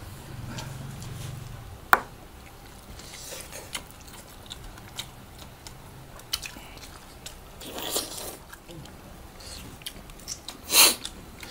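Close-up eating sounds from two people eating chicken adobo with their hands: wet chewing and mouth noises with small clicks. There is a sharp click about two seconds in, a short louder mouth noise near eight seconds, and a louder one near the end, which is the loudest sound.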